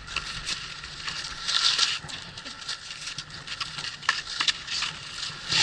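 Skis and ski boots on snow: irregular short scrapes and clicks, with a longer scraping hiss about two seconds in.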